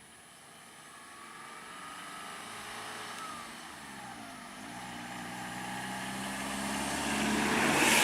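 A road vehicle's engine drawing closer and growing steadily louder, its pitch dipping and recovering about halfway through, with tyre noise swelling as it nears and passes close by near the end.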